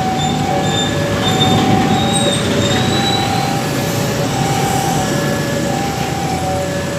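Railway level-crossing warning alarm sounding two alternating tones, each held for about a second, over the rumble of a train moving through the crossing.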